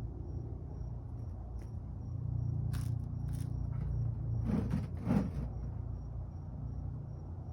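A few short scrapes and knocks from oil-change parts being handled under the car, two louder ones about halfway through, over a steady low rumble.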